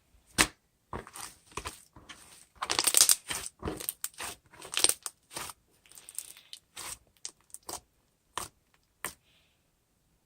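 An irregular run of sharp clicks and short crinkling, crackling noises, densest about three to five seconds in, with one loud click near the start and two last clicks near the end.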